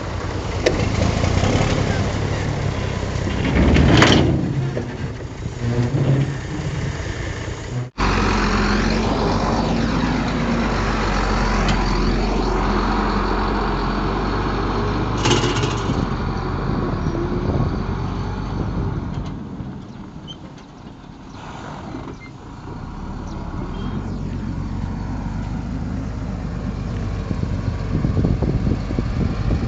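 Heavy diesel engines of a Komatsu D58 bulldozer and a ten-wheel dump truck running under load. There is a louder burst about four seconds in, and the sound changes abruptly about eight seconds in.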